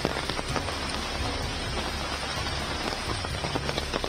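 Heavy rain pouring down onto a flooded street and the standing water on it: a dense, steady hiss thick with the ticks of countless drops striking.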